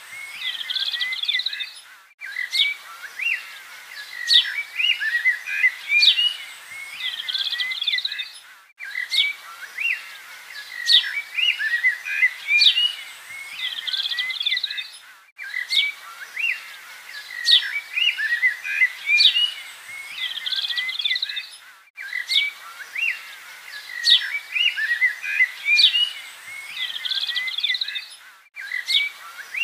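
Birdsong of many chirps and short whistles on a loop: the same stretch of about six and a half seconds repeats over and over, with a brief gap between repeats.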